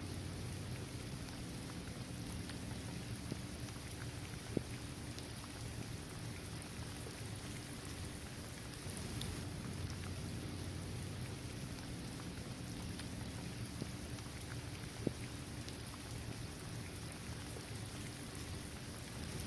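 Steady rain falling on a paved basketball court, trees and grass, with scattered individual drops ticking and a steady low rumble underneath. Two sharper single drop hits stand out, about four and fifteen seconds in.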